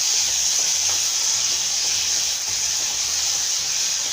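Masala paste with spice powders sizzling steadily in hot oil in a pan, frying off the raw taste of the spices.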